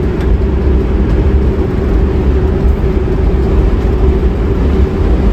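Steady low rumble of a campervan driving, heard from inside the cabin, with a constant hum running under it.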